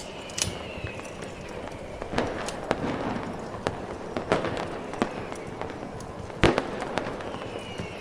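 Fireworks going off at irregular intervals, sharp bangs and pops with the loudest bang about six and a half seconds in. A short falling whistle comes near the start and again near the end, over a steady hiss.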